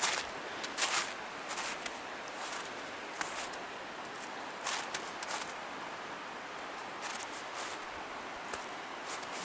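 A hiker's footsteps on a forest trail: short scuffing steps at irregular spacing of about half a second to a second, with a brief pause about halfway through, over a steady background hiss.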